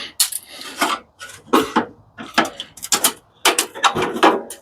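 A quick, irregular series of short scrapes and clatters, two or three a second, from parts being handled and worked loose while a commercial coffee machine is dismantled by hand.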